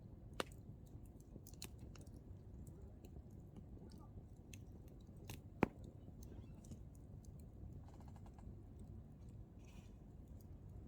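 Hardwood campfire burning: firewood crackling with scattered faint ticks and two sharper pops, one just after the start and a louder one about halfway, over a low steady rumble.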